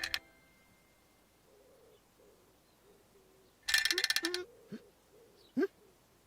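Faint soft bird hooting in a night-garden soundscape. About four seconds in there is a short burst of rapid jingling clicks, followed by two quick rising whistled chirps.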